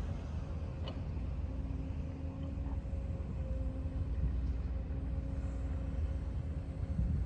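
Outdoor rumble with a steady low mechanical hum, like a running engine or machine, and a faint click about a second in.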